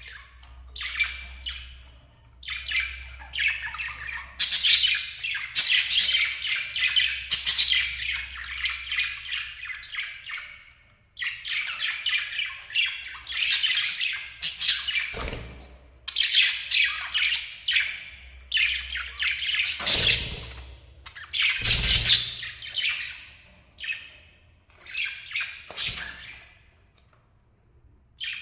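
A pair of lovebirds chattering and squawking, with rapid chirps in bouts separated by brief pauses. A few soft thumps come in the second half.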